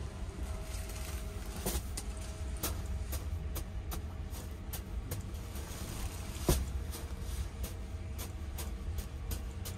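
Steady low rumble of the Sunrise Express sleeper train heard inside its single-room compartment, with scattered light clicks on top, the sharpest about six and a half seconds in.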